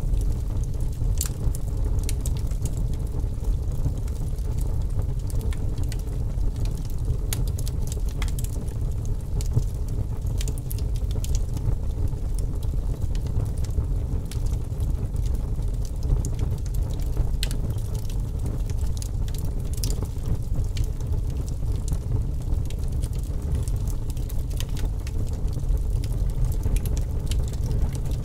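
Wood fire burning in a fireplace: a steady low rumble with irregular crackles and pops.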